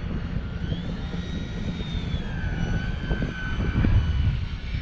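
Durafly Tundra RC plane's electric motor whining, its pitch gliding up and down, over heavy gusty wind buffeting the microphone.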